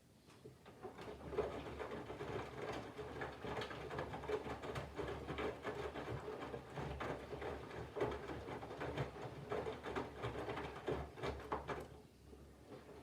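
Candy GVF4 front-loading washing machine in its main wash: the drum turns wet laundry through the water with a run of soft thuds and swishes. It starts about a second in after a pause, and stops near the end for the pause before the drum reverses.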